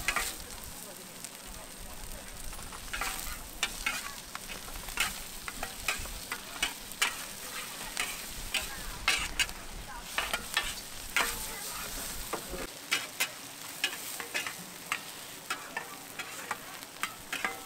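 Food frying with a steady sizzle, while a cooking utensil clicks and scrapes against the cooking surface many times in an uneven rhythm.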